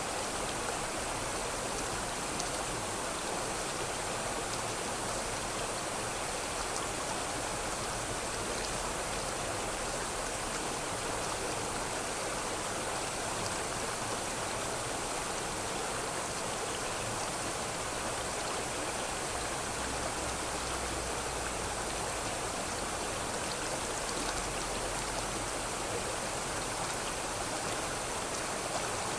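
River water flowing over stones: a steady, even rushing with no breaks or changes.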